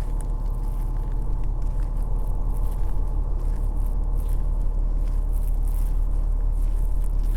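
Steady low rumble of city traffic, unbroken and unchanging.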